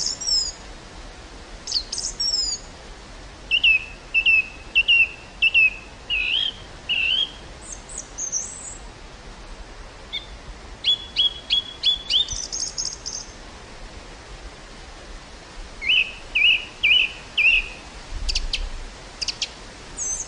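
Small birds chirping in short runs of three or four quick notes, with higher calls in between, over a steady hiss of wind across a meadow. A low wind rumble rises near the end.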